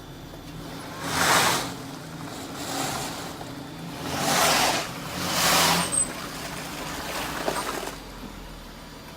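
Jeep running with a steady low engine hum, with about five loud swells of rushing noise on top, the strongest about a second in and around four and five and a half seconds in.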